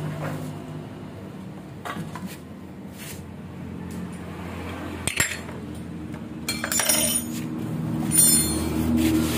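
Small metal Vespa engine parts clinking and rattling as they are handled, with a sharp click about five seconds in and bursts of clattering near the end, over a steady low hum.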